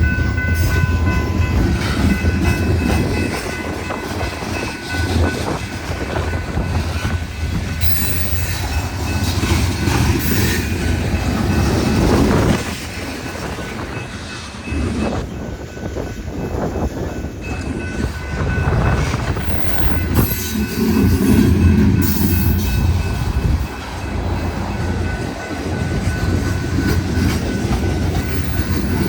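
Freight train passing a crossing: a continuous heavy rumble and clatter of wheels on the rails that swells and eases as the cars roll by.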